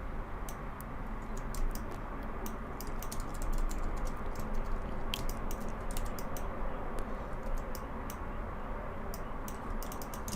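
Computer keyboard keys tapping irregularly, in scattered short runs of clicks, over a steady low background hum.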